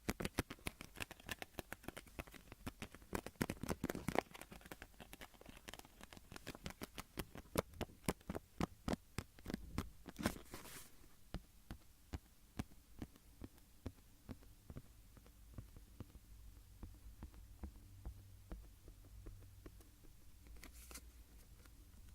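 Rapid light tapping and scratching on a small object, dense for about the first ten seconds, then thinning to scattered taps, with a brief hiss twice.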